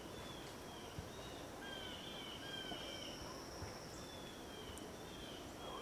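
Birds in the woods giving short, repeated downslurred chirps over a faint steady background haze, with a thin high steady tone for about a second and a half near the middle.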